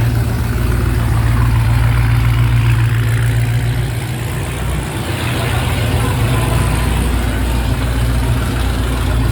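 Muscle car engine running with a loud, steady low rumble, easing briefly about halfway through, with voices in the background.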